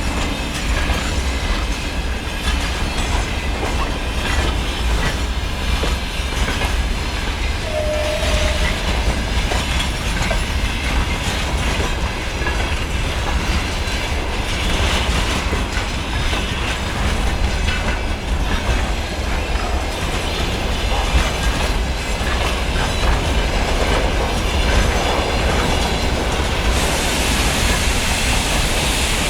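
A train passing close by on the Trans-Siberian main line, with steady rumble and wheels clattering over the rail joints throughout.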